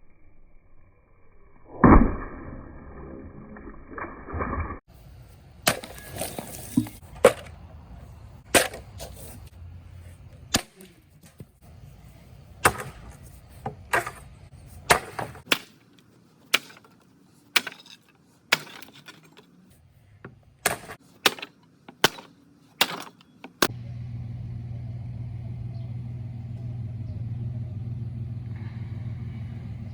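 A heavy thud, then a run of about twenty sharp knocks or strikes at uneven spacing. Near the end a steady low hum starts.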